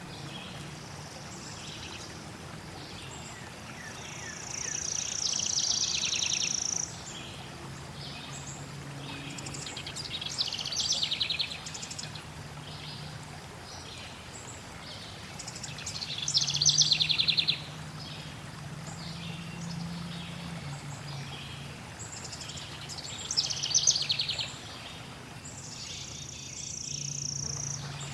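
Forest songbirds singing trilled phrases every few seconds over a steady background of flowing water.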